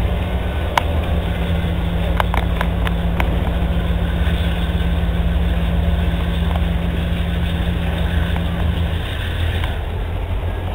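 Freight cars rolling past close by: a steady low rumble of steel wheels on the rails, with several sharp clicks in the first few seconds. A steady low hum stops shortly before the end.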